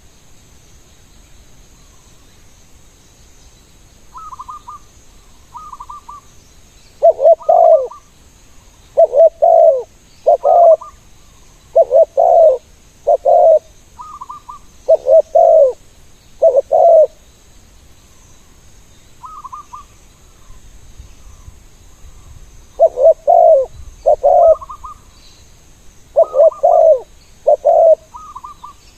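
Spotted doves cooing. Loud, repeated coos come in a run from about seven seconds in and a second run near the end. Fainter, higher coos fall in before, between and after the loud runs.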